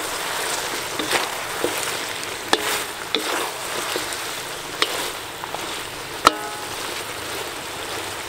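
Chicken feet sizzling in a wok as they are stir-fried, a steady frying hiss with several sharp knocks of the wooden spatula against the pan. The loudest knock comes about six seconds in and rings briefly.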